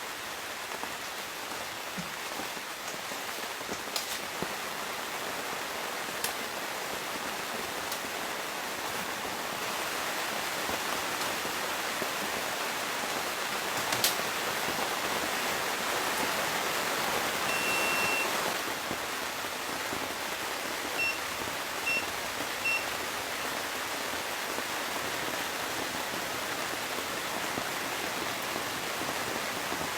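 Steady rain pattering on a tent, with a few single taps. A little past halfway an electronic beep sounds, followed a few seconds later by three short beeps.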